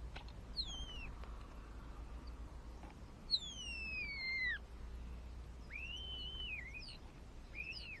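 A bird's whistled calls: four or five separate slurred whistles, most gliding down in pitch, the longest falling steadily for over a second near the middle and one arching up and then down.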